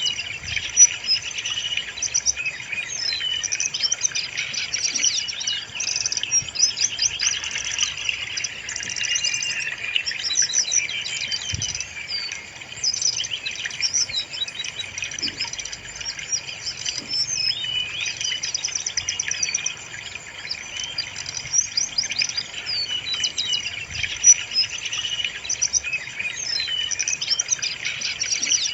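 Brown-chested jungle flycatcher singing: a continuous run of quick, high, varied chirping phrases.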